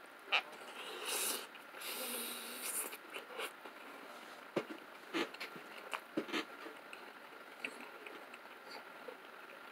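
A person biting into and chewing a slice of DiGiorno pizza: scattered wet mouth clicks and smacks, with a few short breathy rushes in the first few seconds.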